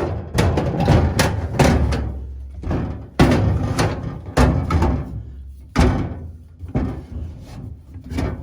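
Repeated knocks and thuds, about a dozen at uneven intervals, as sections of a float boat are handled, shifted and set down into a packed load.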